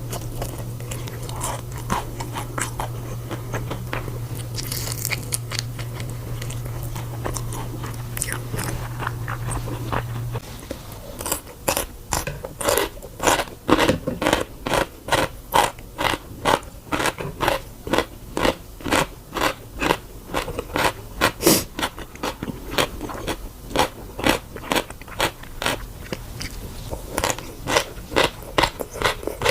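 A person chewing crunchy food close to the microphone. Scattered crunches at first over a low steady hum; about ten seconds in the hum stops and the chewing becomes a fast, even crunching of about two bites a second.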